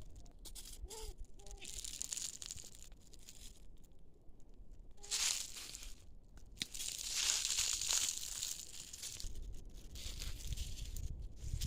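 Leaves and plant stems rustling and tearing in several bursts, the longest about two-thirds of the way through, as of vines being handled and pulled while picking.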